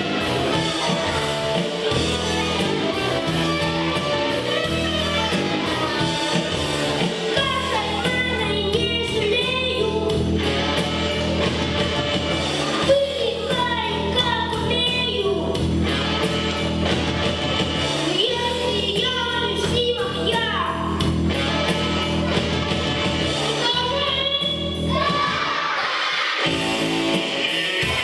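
A child singing a pop song over backing music with guitar. After several seconds of the instrumental, the voice comes in and sings in four phrases with short gaps between them.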